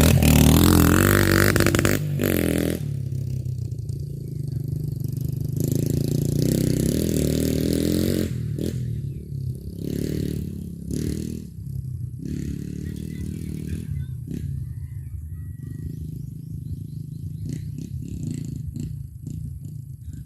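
150cc Chinese single-cylinder dirt bike engine revving hard with rising pitch as the bike pulls away, then running unevenly with a further surge a few seconds later and fading with scattered bursts of throttle.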